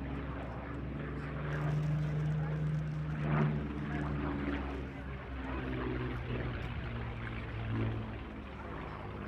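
Piston engine of a Curtiss warbird fighter droning through an aerobatic display pass, shifting in pitch and loudness as the aircraft moves.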